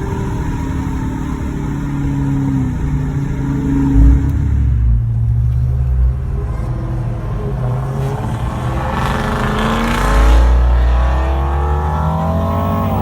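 Dodge Challenger R/T's 5.7 Hemi V8 running through a custom exhaust with Flowmaster Super 10 mufflers, with a loud thump about four seconds in. In the second half the engine accelerates, its note rising steadily in pitch to the end.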